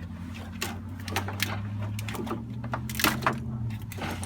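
A small power tool's motor running steadily, with irregular clicks and knocks over it, then cutting off about four seconds in.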